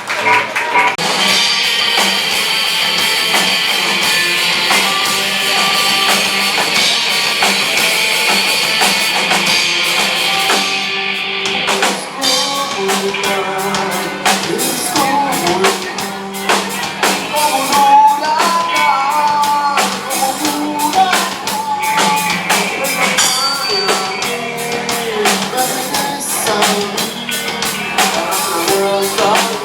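Live rock band playing with drum kit, electric guitar and singing. A held, bright sustained sound fills roughly the first ten seconds, then the drums settle into a steady driving beat under a sung melody.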